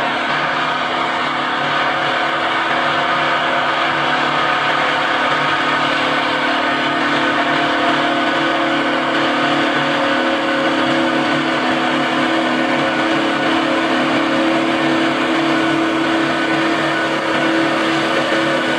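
Big Bud 16V-747 tractor's 16-cylinder two-stroke Detroit Diesel engine running steadily under load, a constant pitched drone with no breaks.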